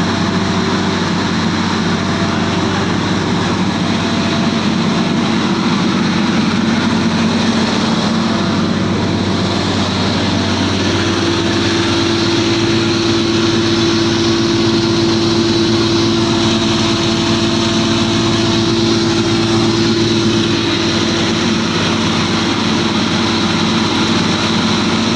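Paddy husk grinder running steadily with a constant machine hum; a higher steady tone joins about eleven seconds in.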